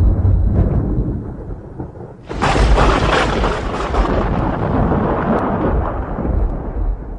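Thunder: a low rumble dying away, then a sudden sharp thunderclap about two seconds in that rolls on and slowly fades.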